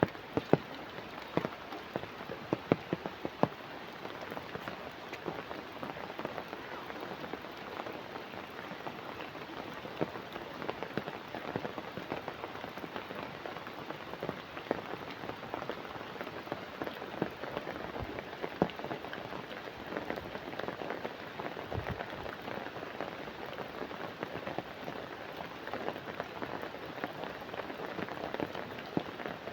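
Steady rain falling on a pond, a dense patter of drops hitting the water. Several louder, close drop splats stand out in the first few seconds.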